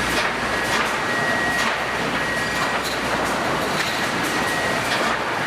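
Sawmill board-handling machinery running: a steady mechanical din with frequent clattering knocks, as of boards on conveyors.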